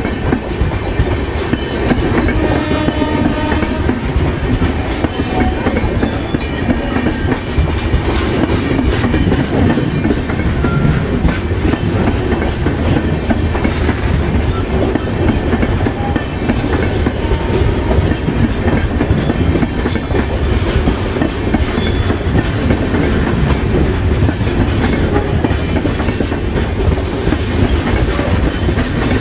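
A train's cars rolling past, loud and steady, wheels clattering over the rail joints in a continuous clickety-clack.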